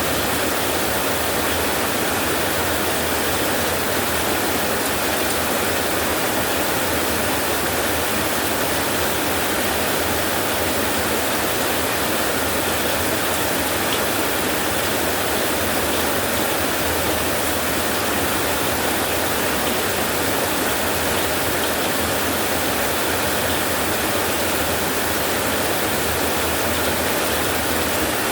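Steady, even rainfall hiss, without a break or a thunderclap.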